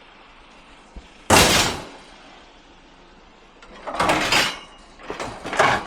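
Metal fold-out bed frame banging and scraping as it is heaved onto a fully loaded vehicle: one loud crash about a second in, then two shorter clattering scrapes near the end.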